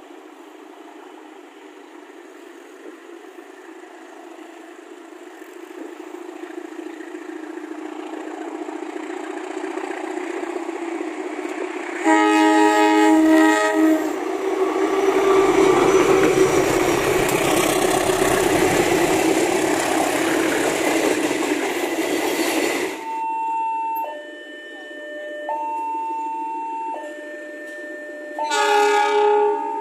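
A diesel locomotive hauling passenger coaches approaches, growing louder, sounds its horn for about two seconds, then passes close by with loud engine and wheel noise. This cuts off abruptly about 23 s in; then a level-crossing warning alarm steps back and forth between two tones, and a locomotive horn sounds briefly near the end.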